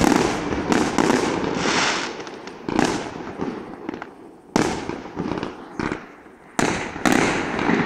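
Aerial firework shells bursting in quick succession: sharp bangs every half second to two seconds, each trailing off in a long echo.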